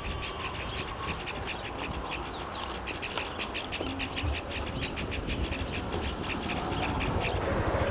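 A bird calling in a fast, regular series of short high-pitched chirps, several a second, over a low steady background rumble. The chirping stops shortly before the end.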